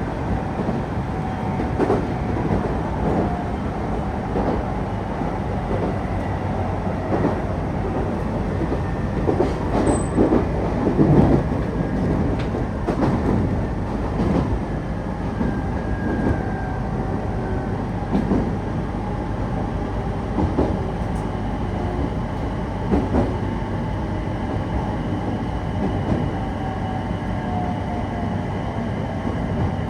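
Electric passenger train running along the line, heard from inside the car: a steady rolling rumble with the wheels clicking over rail joints, and a faint motor whine that drifts slowly in pitch. The rumble and clicks grow louder for a couple of seconds about ten seconds in.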